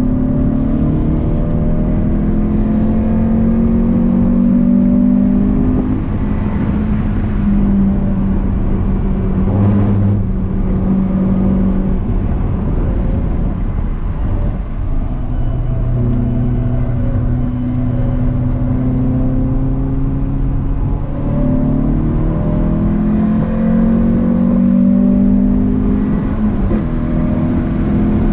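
Renault Clio 182's 2.0-litre four-cylinder engine heard from inside the cabin under hard driving: the revs climb in each gear and fall away at the gear changes several times, over a steady rumble of tyres and road. A short thud comes about ten seconds in.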